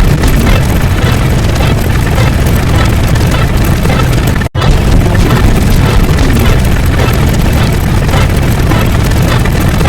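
Loud, dense rumbling noise, strongest in the low end. It cuts out abruptly for a split second about four and a half seconds in, then starts again.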